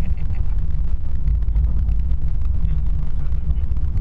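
Steady low rumble of a car driving, road and engine noise heard from inside the vehicle.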